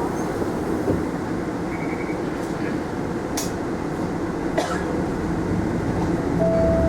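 Mitsubishi Fuso Aerostar city bus heard from inside while driving: a steady rumble of engine and road noise, with a couple of sharp rattling clicks in the middle. Near the end the engine hum gets louder and a brief tone sounds.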